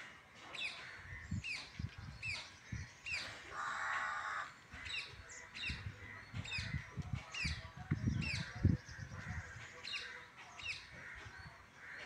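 A bird calling over and over, short sharp down-slurred calls at a fairly even pace of about one a second. A brief rushing hiss about four seconds in and a few low bumps, the loudest near nine seconds in.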